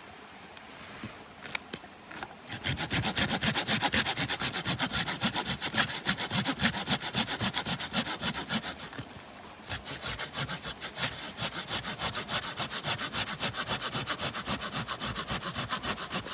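A hand saw cutting through wood with quick, even back-and-forth strokes. The sawing starts a couple of seconds in, stops briefly about halfway, then resumes.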